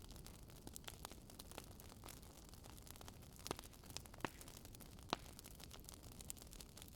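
Wood fire crackling faintly, with scattered sharp pops and snaps, a few louder ones around the middle, over a low steady rumble.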